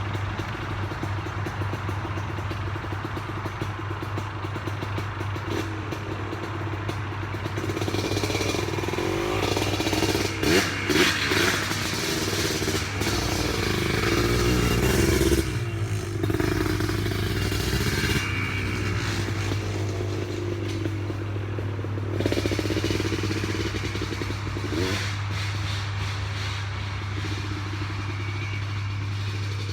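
ATV (four-wheeler) engine running under way, revved up in several stretches between steadier running, the loudest about halfway through.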